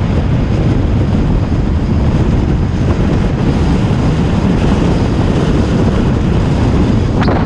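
Wind buffeting the microphone over the steady road and engine noise of a moving bus, with one short sharp knock or squeak near the end.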